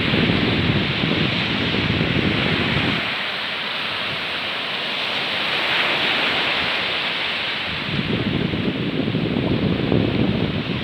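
Steady rush of water where a small waterfall and stream pour into the sea, with surf. Wind buffets the microphone in gusts for the first three seconds and again from about eight seconds in.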